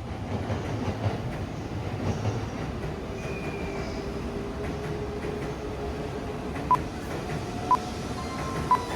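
Tohoku Shinkansen Nasuno bullet train running, a steady train noise throughout. Near the end come three short electronic beeps about a second apart.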